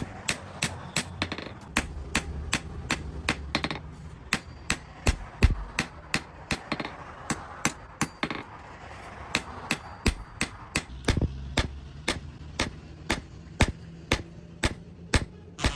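Blacksmith's hand hammer striking metal on an anvil, a steady run of sharp blows at about three a second.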